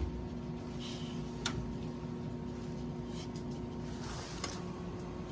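Steady low machinery hum with a few faint steady tones, broken by two light clicks, one about a second and a half in and one near the end.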